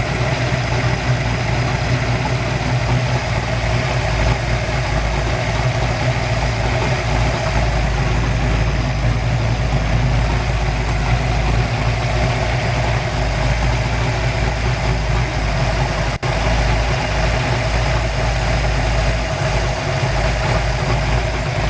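Kiekhaefer 482 ci big-block V8 marine race engine idling steadily, run out of the water while its ignition timing is being set by turning the distributor back.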